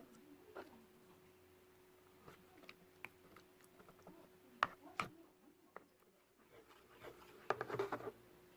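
Slime being handled by hand, giving scattered soft clicks and pops, then a quick burst of crackly squishing near the end.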